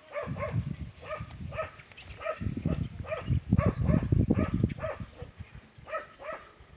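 A dog barking repeatedly in short, high barks, about two a second, over low rumbling noise.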